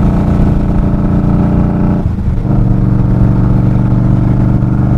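Indian Scout Sixty's V-twin motorcycle engine running under way, with a brief dip about two seconds in as the gear is shifted up, after which it runs at a lower pitch.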